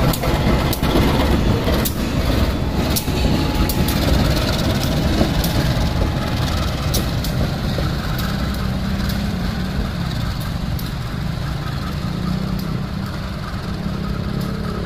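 Diesel locomotive train passing close at low speed and pulling away: a steady engine rumble with sharp clicks of the wheels over rail joints in the first half, then a steady low engine tone as the train moves off.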